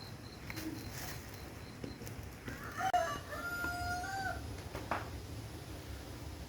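A rooster crowing once in the background: one long call of about two seconds, with a short rise and a lift at the end, starting about halfway through. A few light clicks are heard around it.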